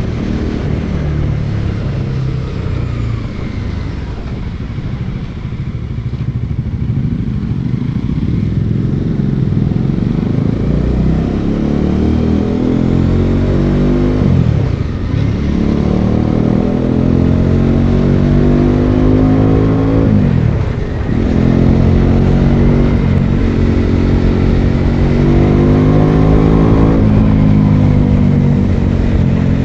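Bajaj Dominar 400's single-cylinder engine under way, its revs climbing steadily in gear. The revs drop sharply at an upshift about halfway through and again about six seconds later, then climb again after each shift.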